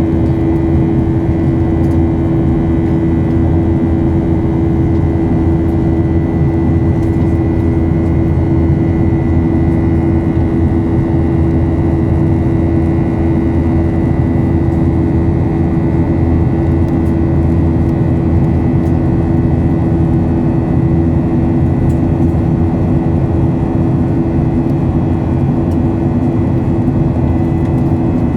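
Ryanair Boeing 737 jet engines running steadily, heard as a loud, even drone inside the cabin with a strong low hum and a fainter high whine.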